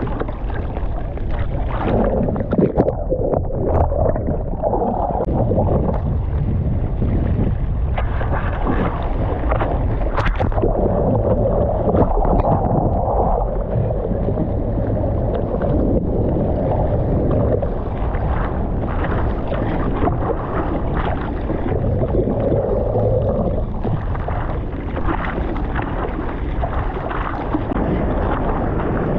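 Ocean water churning and splashing in the surf, with wind buffeting the microphone.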